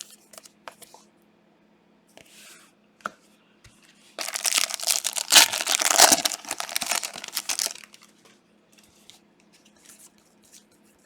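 A trading-card pack's plastic wrapper being torn open and crinkled: a rough, loud burst of about three and a half seconds starting about four seconds in, with faint clicks of cards being handled before and after.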